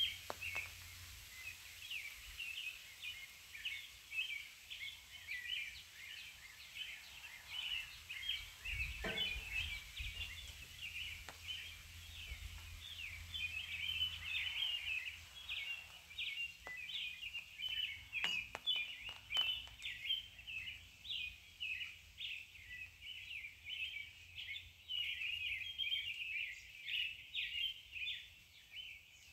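Birds chirping and twittering without a break, a dense chatter of short high calls. A dull knock comes about nine seconds in, and a few faint clicks come a little past halfway.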